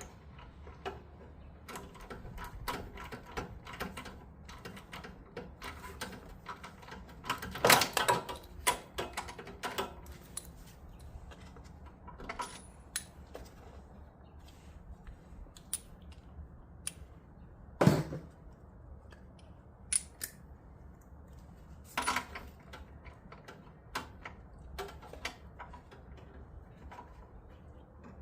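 Metal hand tools clicking and clanking against metal during engine work, in irregular clusters, with a loud single knock about eighteen seconds in and another a few seconds later.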